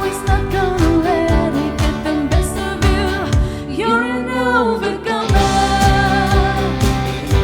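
Worship team performing a praise song: a lead singer over a band with a steady drum beat. The drums and bass drop out for about a second midway, then come back in.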